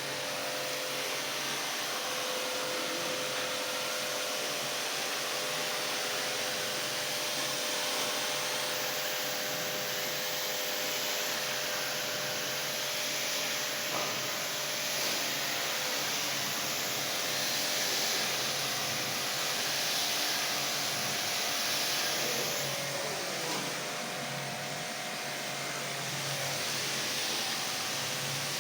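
Steady rushing hiss of a motor-driven machine, with a faint steady hum beneath it.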